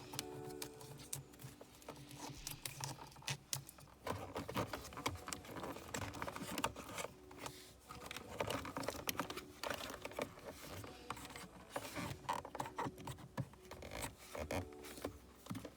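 Irregular clicks, rustles and scratches of hands working wiring and plastic centre-console trim inside a car.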